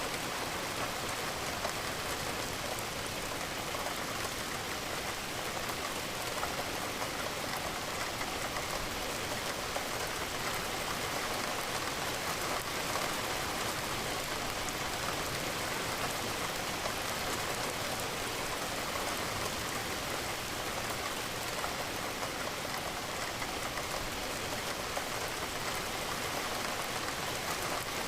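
Steady rain, with raindrops pattering against a window. An even, unchanging hiss.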